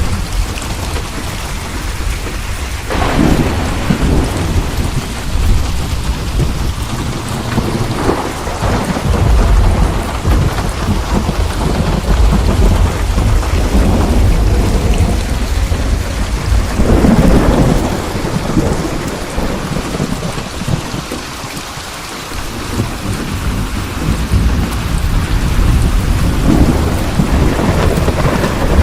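Steady heavy rain with repeated rolling thunder rumbling. The rumbles swell several times, strongest around the middle.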